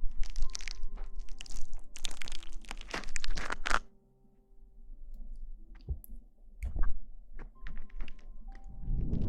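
Close-miked ASMR rustling and crinkling, with crackly bursts and scattered clicks for about four seconds, then only sparse light ticks. A dull low thump comes at the very end.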